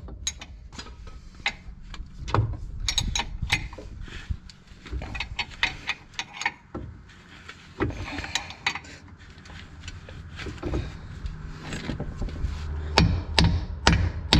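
Hand tools working on steel parts of a van's front end: irregular metallic clicks and knocks, with a quicker run of sharp strikes near the end.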